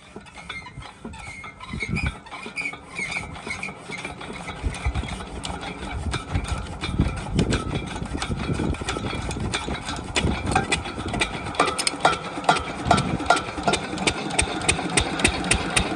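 Stationary diesel engine of a water pump set picking up after starting, its firing beats growing louder and quicker until it runs at a steady fast beat.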